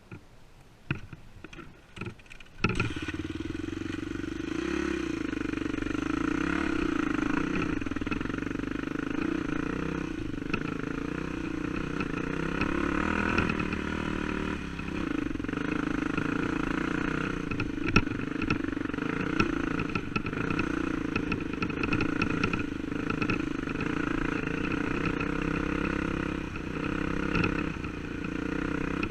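A few knocks, then a dirt bike engine comes in suddenly about two and a half seconds in and runs steadily, its pitch wavering slightly.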